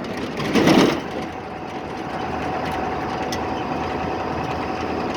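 A truck driving along, with its engine running steadily under road and wind noise. There is a brief louder rush about a second in.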